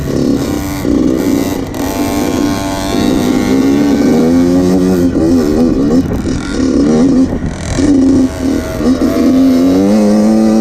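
2014 Yamaha YZ85's 85cc two-stroke single-cylinder engine revving hard, its pitch climbing and dropping again and again as it is ridden and shifted through the gears.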